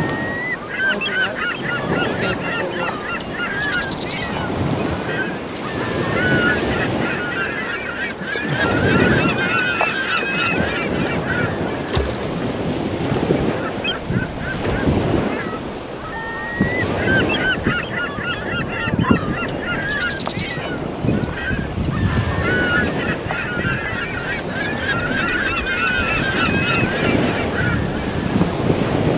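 Birds calling in repeated chattering bursts of several seconds each, over steady wind noise on the microphone.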